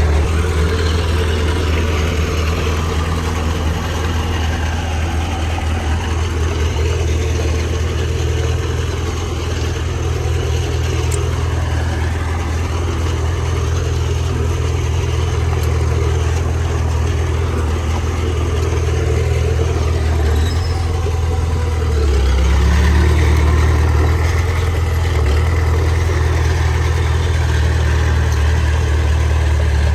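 Diesel engine of heavy earthmoving machinery running steadily with a deep hum, growing a little louder about two-thirds of the way through.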